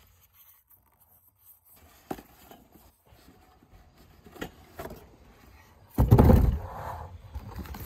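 Ceiling fan parts and packaging being handled: scattered soft scrapes and knocks, with a louder scraping rustle about six seconds in.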